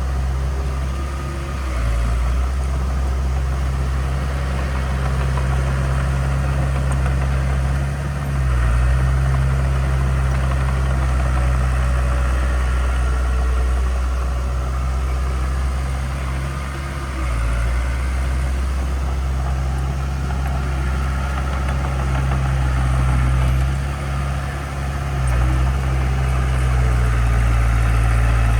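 Heavy construction machine's diesel engine running steadily with a deep hum, its pitch and level dipping briefly a few times.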